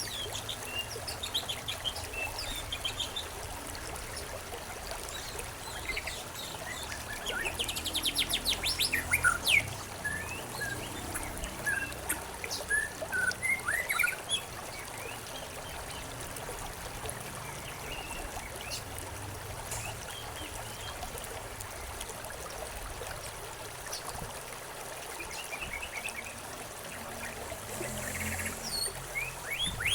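Small birds chirping and calling over a steady trickle of running water. A quick run of rapid high chirps comes about a third of the way through, the calls are sparser after that, and the chirping picks up again near the end.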